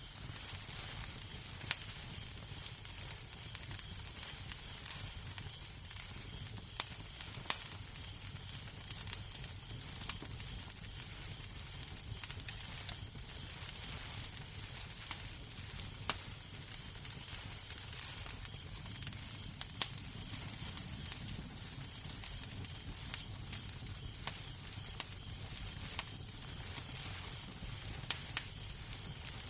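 Fireplace fire crackling, with irregular sharp pops and snaps over a steady hiss and a low rumble.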